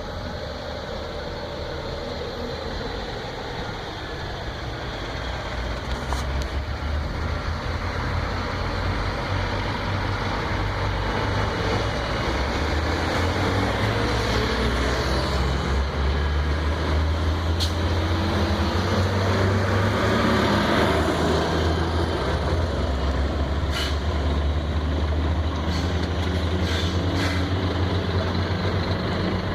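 Scania truck's diesel engine running low and steady as the truck manoeuvres to park, growing louder after a few seconds, with a few short sharp clicks or hisses along the way.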